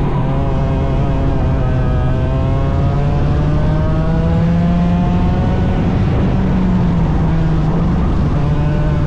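A 100cc racing engine running hard through a qualifying lap. It is loud and continuous, and its note climbs slowly for a couple of seconds, then eases off and holds.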